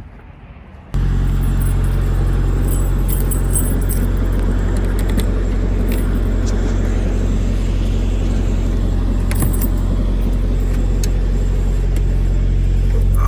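Steady, loud motor-vehicle drone that starts abruptly about a second in, with light rattles and clicks over it.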